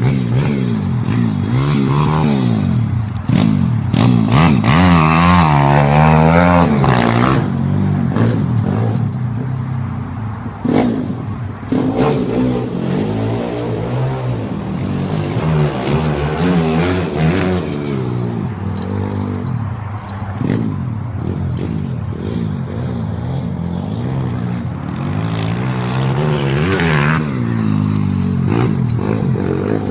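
Pit bike engine revving up and down over and over, its pitch rising and falling repeatedly, loudest about five seconds in.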